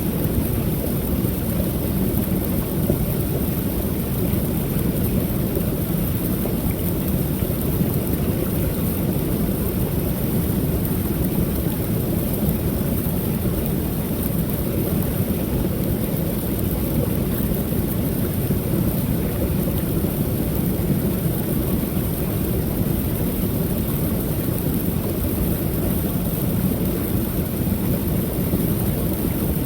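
A small waterfall on a creek pouring steadily: a constant deep rush of falling water with no breaks or changes.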